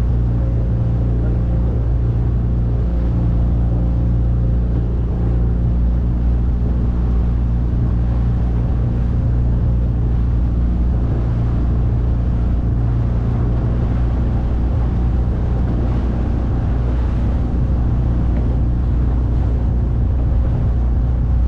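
9.8-horsepower outboard motor running steadily, pushing a small boat along, with an even hum that holds at one pitch and one level throughout.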